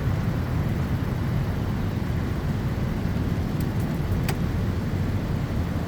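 Wind buffeting the microphone: a steady low rumble, with a faint click a little over four seconds in.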